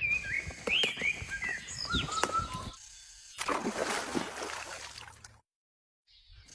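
Small birds chirping in short whistled calls, with a few clicks, for the first couple of seconds. After a short lull comes a stretch of trickling water that cuts off abruptly.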